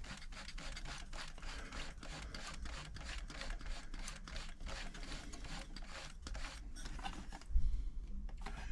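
Dense, irregular small clicks, scrapes and rubbing of hands and tools working on a sewing machine's metal hook mechanism. A short low thump comes near the end.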